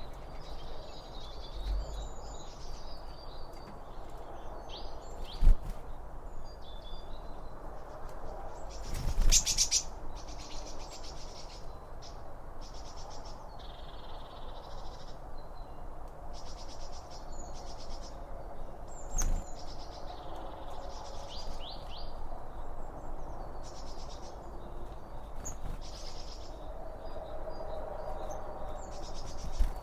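Songbirds chirping and calling over and over, over a steady background hiss, with a few sharp knocks: one a few seconds in, a louder one near a third of the way through, and another past the middle.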